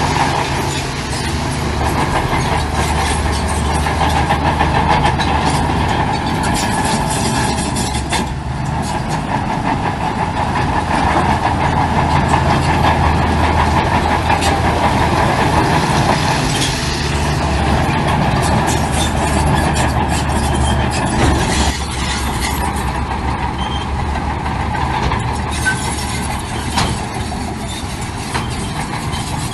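Heavy diesel construction machinery running steadily under load, with frequent metallic clanks and rattles.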